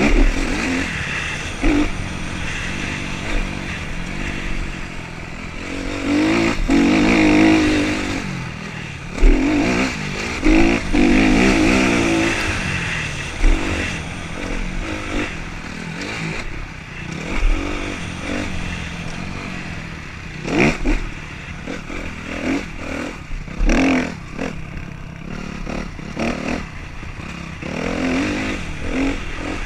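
Motocross motorcycle engines revving up and dropping back again and again as the bikes ride the track, with several sharp thumps scattered through.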